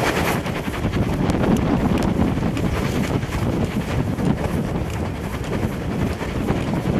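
Steam-hauled passenger train running along the line, heard from an open carriage window: a steady rumble of wheels on rail, with wind buffeting the microphone.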